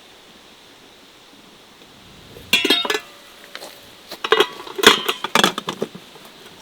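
Kitchenware clinking and knocking: a sharp rattle of clinks about two and a half seconds in, then a string of separate clinks and knocks.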